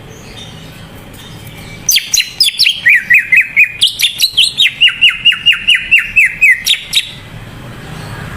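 Green leafbird (cucak ijo) singing a fast run of loud whistled notes, each sliding downward, about four a second, starting about two seconds in and stopping abruptly some five seconds later.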